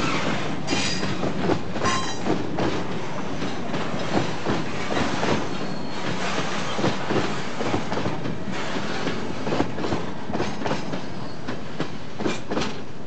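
Freight train wagons rolling past, their wheels clattering in an uneven run of clacks over the rail joints, with a brief wheel squeal about two seconds in.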